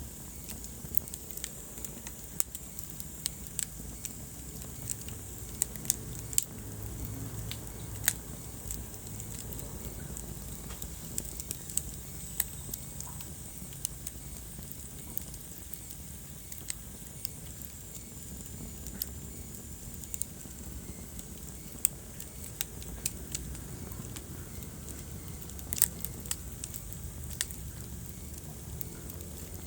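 Wood fire burning in a fireplace, crackling with irregular sharp pops and snaps over a soft low rumble and hiss.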